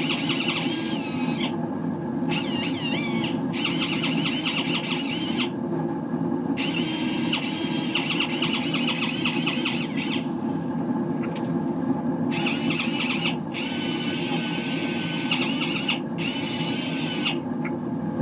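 Power sander fitted with a thick cushion pad, sanding a plastic car body part: a steady motor hum with a wavering high squeal that stops and starts several times.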